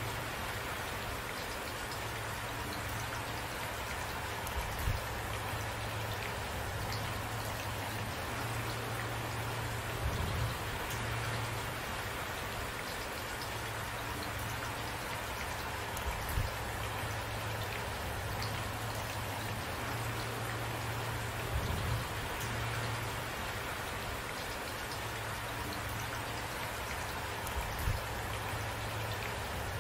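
Steady rain falling, with short low thumps about every five to six seconds.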